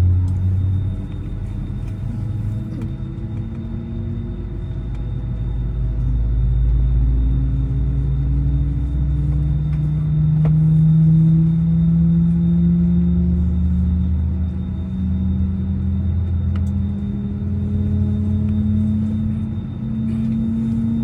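Airbus A320-214's CFM56-5B jet engines heard from inside the cabin on the ground: a steady low rumble with engine tones slowly rising in pitch.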